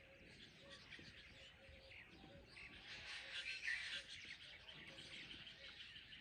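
Many birds chirping at dawn in a forest-edge chorus, denser in the middle, with a short low note repeating steadily underneath.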